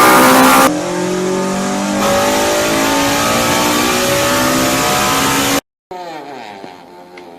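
High-revving Honda VTEC engine accelerating hard, its pitch climbing steadily through a long pull, with a sudden drop in level about a second in. It cuts off abruptly and, near the end, a quieter engine is heard with revs swinging up and down.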